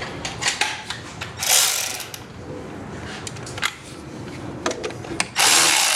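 Ratchet wrench clicking in quick runs as the thermostat housing bolts are worked loose. A short rushing burst comes about a second and a half in, and a louder, longer one near the end.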